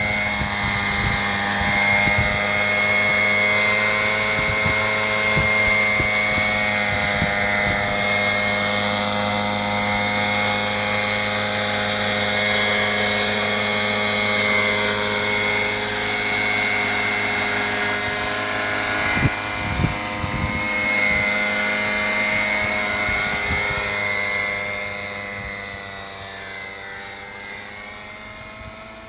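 Thunder Tiger Raptor 50 model helicopter running on a four-stroke engine: a steady engine drone with a high, even whine over it. It gets quieter over the last few seconds.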